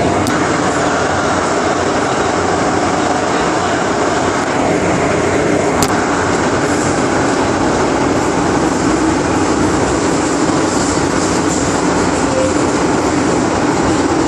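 MTR Island Line underground train running steadily between stations, heard from inside the car: a loud, even rumble of wheels on rail and traction gear, with two sharp clicks, one near the start and one about six seconds in.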